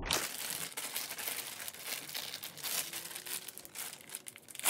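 Plastic bag crinkling and rustling in quick, irregular crackles as slime is squeezed and pulled out of it, in sped-up footage.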